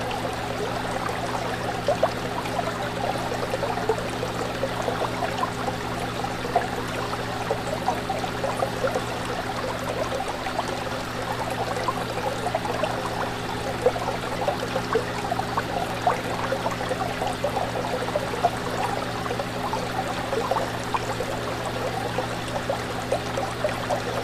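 Fish tank water bubbling and trickling steadily, a dense stream of small pops, over a steady low hum.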